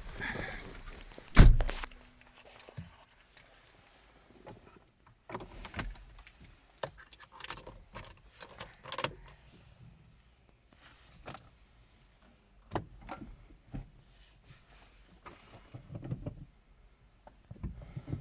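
A car door shutting with a heavy thud about a second and a half in, then a brief low hum and a run of scattered clicks, knocks and rustles of handling inside the car, with the engine not yet running.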